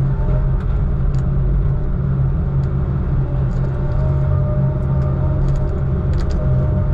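Heavy diesel engine of logging equipment running steadily, a constant low hum with small rattles and ticks over it.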